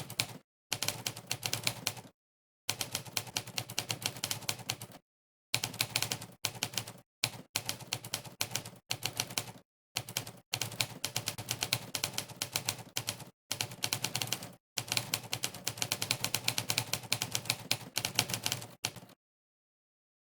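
Typewriter key-strike sound effects from a typing-test website, one crisp clack per keystroke, in fast bursts of typing broken by short silent gaps. They stop near the end.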